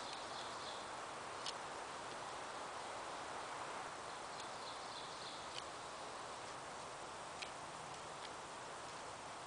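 A steady rushing hiss with a few sharp, isolated ticks, and faint high chirps twice.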